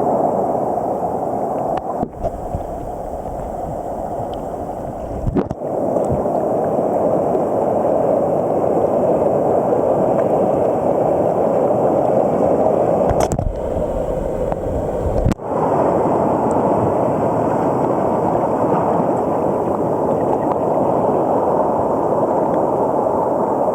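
Steady, muffled rush of water and surf noise, cut by a few brief sudden breaks.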